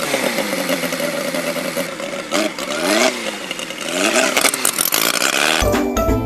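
Several race car engines revving and passing by, their pitch rising and falling over a steady rushing noise. Music with a deep bass line comes in near the end.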